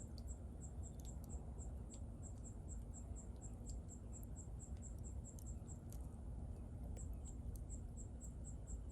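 Bonfire burning with a low rumble and scattered sharp crackles and pops from the wood. An insect chirps steadily over it, short high chirps about four a second, with a brief pause about six seconds in.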